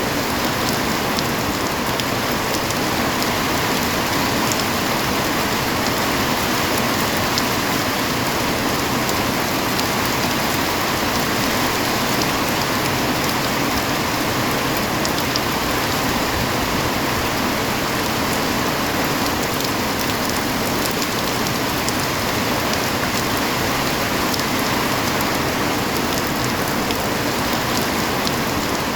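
Rain falling steadily: a dense, even hiss of drops, with small sharper drop ticks here and there.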